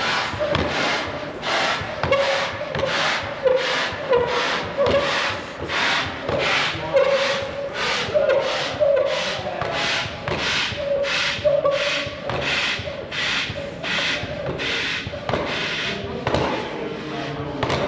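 Manual air pump inflating an inflatable kayak through its fill valve: a steady rhythm of rushing-air strokes, about two a second, several with a short squeaky tone.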